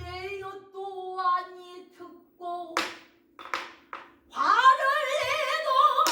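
Female pansori singing: short sung phrases, then from about four seconds in a long held note with a deep, wide vibrato. A few sharp knocks sound in the pause between phrases.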